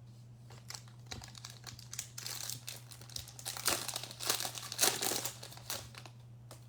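Plastic wrapper of a Panini Contenders basketball card pack being torn open and crinkled by hand, an irregular run of crackling that is densest in the middle.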